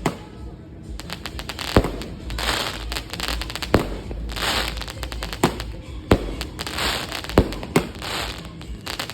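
Aerial firework shells bursting with about eight sharp bangs, one every second or two, with crackling and hissing from the fireworks between the bangs.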